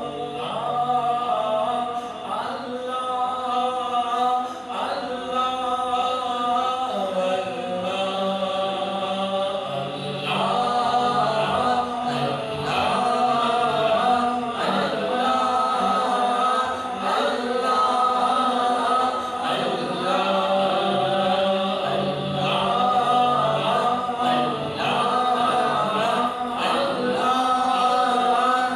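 Wordless a cappella vocal chorus: layered voices holding and sliding chant-like notes over a steady low vocal drone, the background vocals of a naat.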